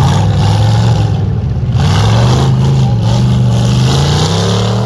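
Off-road vehicle engine running hard, its pitch wavering and then climbing near the end as it revs up.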